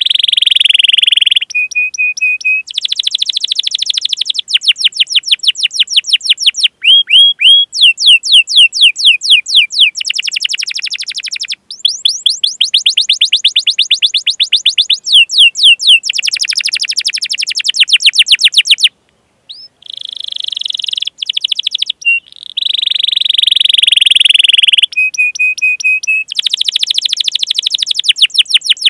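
Domestic canary singing a long, loud song: phrase after phrase of rapidly repeated chirping notes ('cuit cuit'), alternating with buzzing rolls and a few short steady whistled notes, with a brief pause about two-thirds of the way through.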